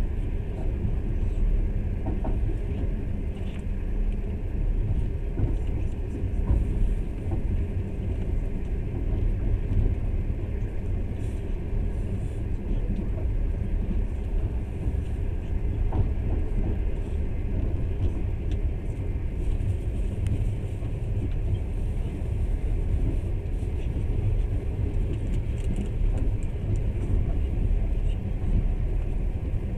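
Passenger train running, a steady low rumble heard from inside the carriage, with a few faint ticks and rattles.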